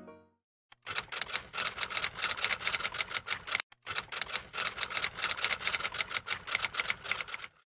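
Typewriter keys clacking in a rapid, uneven run, with a brief pause about halfway through.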